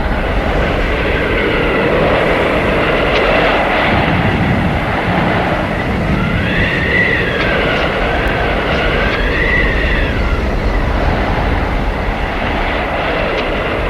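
Howling blizzard wind: a loud, steady rush with whistling tones that rise and fall twice in the middle.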